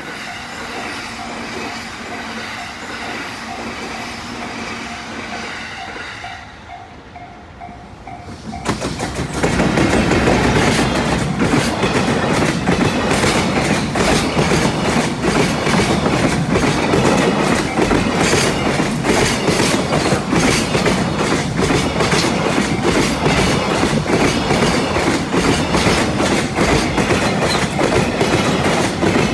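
A level-crossing warning bell ringing in a steady pulse. About nine seconds in, a train passes close by: loud wheel noise with rapid clickety-clack over the rail joints.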